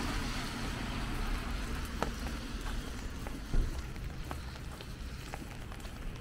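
Steady rain falling, with scattered sharper drops tapping close by and a single louder thump about three and a half seconds in.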